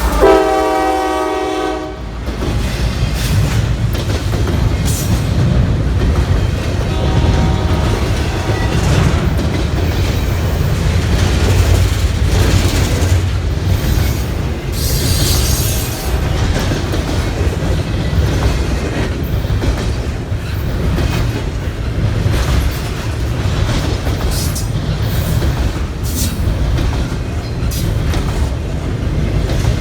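CSX freight train's air horn sounding for about two seconds, then the train rolling past with a steady low rumble and wheels clacking over the rail joints.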